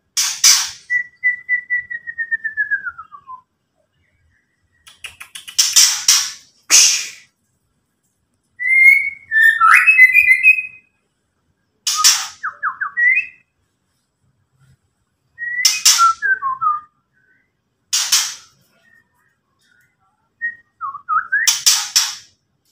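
White-rumped shama (murai batu) giving 'ketrekan': about seven short, harsh rattling bursts, the agitated call used to rile up rival birds, mixed with clear whistled notes, including a long falling whistle near the start and a quick tumbling phrase around the middle, with silent gaps between phrases.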